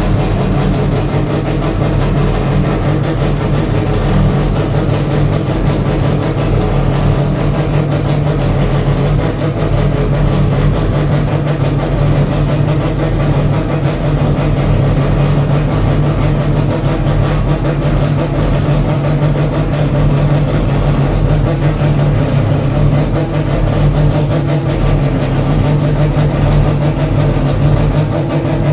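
Mazda 787B's four-rotor R26B rotary engine idling steadily, with no revving.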